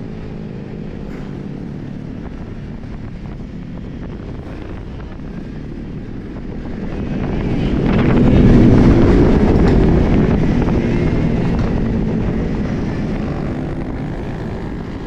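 A motor vehicle's engine running over steady road and wind noise; it grows louder to a peak about eight to nine seconds in, then slowly fades, as a vehicle passes close by.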